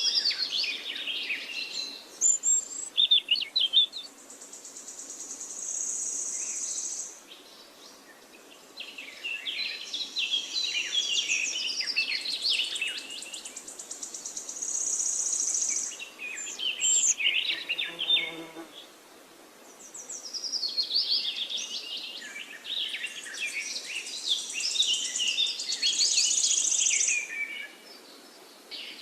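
Songbirds singing in long bursts of quick chirping notes, several seconds each with short pauses between, a high buzzing trill running through each burst.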